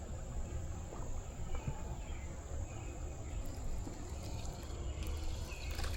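Insects droning steadily at one high pitch, over a low outdoor rumble.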